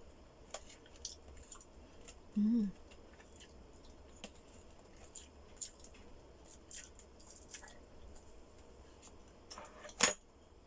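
Close-miked chewing of food, with scattered soft wet mouth clicks and smacks, a short hummed "mm" a few seconds in and a sharper click near the end.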